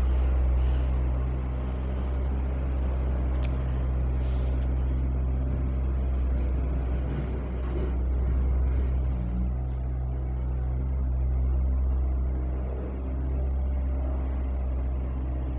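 A large engine running steadily: a low, even droning hum. There is a brief click about three and a half seconds in.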